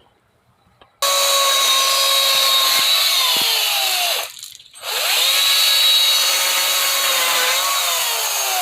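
Power saw cutting through a wind-broken tree branch. It starts suddenly about a second in, and its whine sags in pitch as the blade bites. It cuts out briefly near the middle, then runs again and sags once more near the end.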